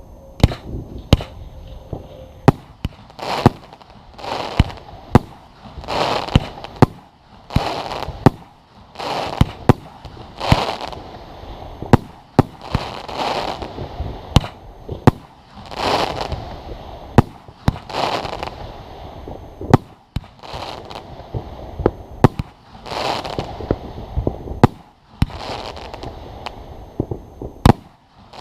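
Fireworks display: many sharp bangs from shells bursting, some singly and some close together, with longer hissing swells of about a second between them.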